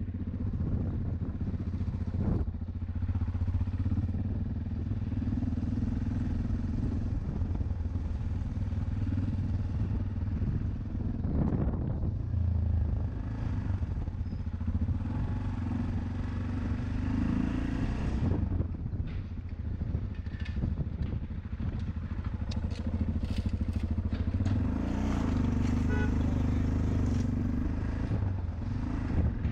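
Yamaha Ténéré motorcycle engine running steadily under way, a continuous low drone, with a few light clicks in the last third.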